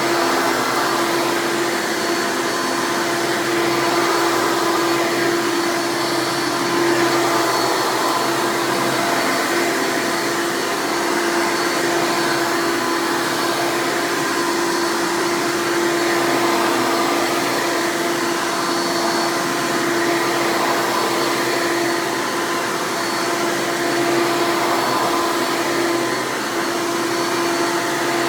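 Hoover Legacy Dirt Finder upright vacuum's 7.2 amp direct-air motor running steadily: an even rush of air with a steady hum, its loudness swelling slightly now and then.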